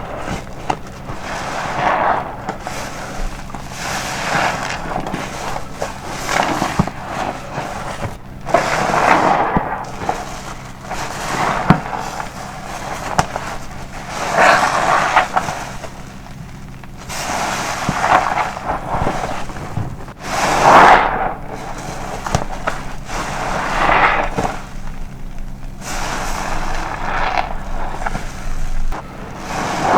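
Car wash sponge soaked with foaming body soap being squeezed over and over, a wet crackling squelch of foam and liquid every two to three seconds.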